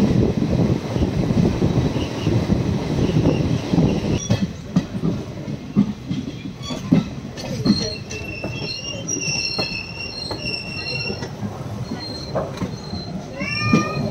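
Passenger train running, with a heavy rumble of wheels on the track. From about four seconds in the running is sparser, with scattered knocks and high steady wheel squeal coming and going as the train rolls slowly along a station platform, and a short rising squeal near the end.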